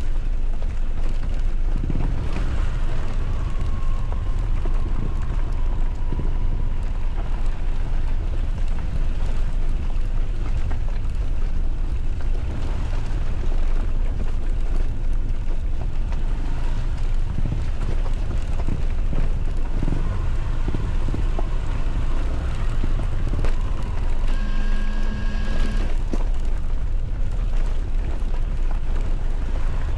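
A motorcycle on the move, its engine running steadily under heavy wind rush over the microphone. A brief steady tone sounds about twenty-five seconds in.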